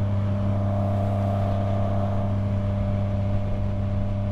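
Yamaha MT-09's three-cylinder engine running at a steady speed under way, its note holding level with no revving up or down.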